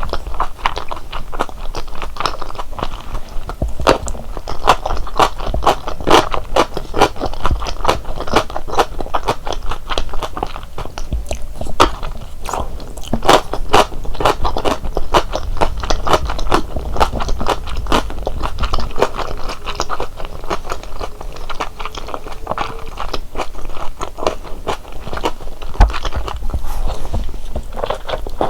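Close-miked mouth sounds of biting into and chewing large Korean dumplings (wang mandu), a dense run of small clicks throughout.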